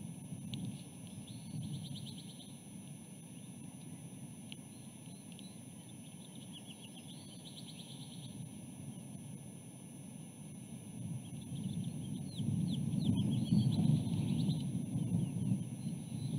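A bird's calls: four short phrases of quick, high chirping notes, each a second or two long and several seconds apart. Wind rumbles on the microphone underneath and grows louder near the end, and a faint constant high whine runs throughout.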